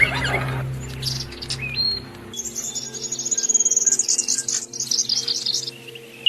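Songbirds singing: quick chirps at first, a couple of short whistled rising notes, then a long, rapid, high-pitched trill that lasts about three seconds, with a last chirp at the end. A steady low hum of held tones runs underneath.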